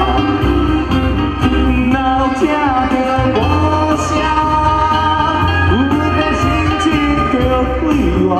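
A live band playing a Taiwanese Hokkien pop song: a melody line with sliding, wavering notes over a steady bass and beat.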